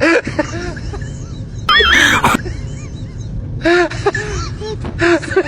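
Goose-like honking: short calls that rise and fall in pitch, with four loud, harsh honks among them.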